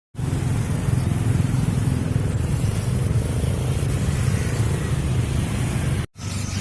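Motorcycle engine running steadily with a low rumble, stopping abruptly about six seconds in.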